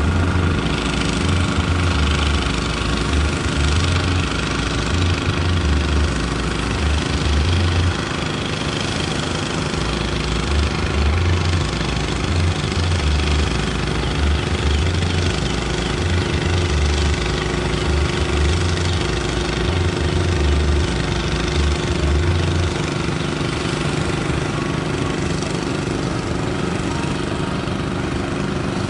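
An engine running steadily at an even speed, with a low rumble under it that stops about three quarters of the way through.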